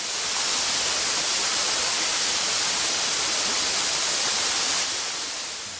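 Steady, even hissing noise that fades in at the start and fades out near the end.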